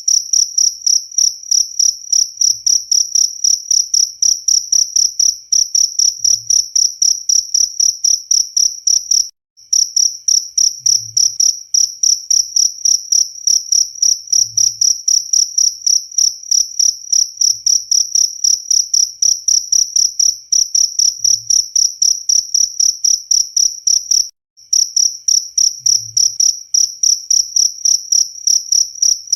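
Cricket chirping steadily, a high-pitched ringing note repeated about four to five times a second. It breaks off twice for a moment and picks straight back up.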